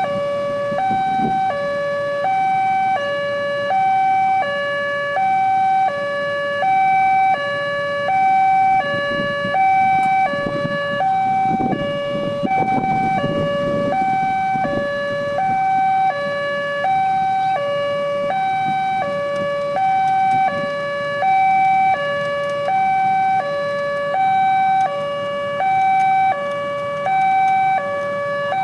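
Railway level-crossing warning alarm sounding continuously: an electronic two-tone signal alternating evenly between a higher and a lower tone, each held for under a second, the warning that a train is approaching and the gates are closed. A low rumble swells in the middle.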